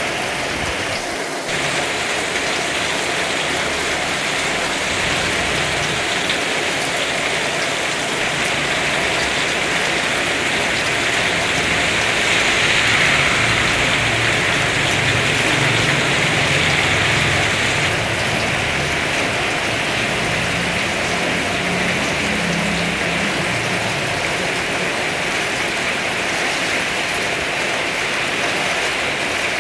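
Heavy rain pouring down steadily, growing a little louder in the middle.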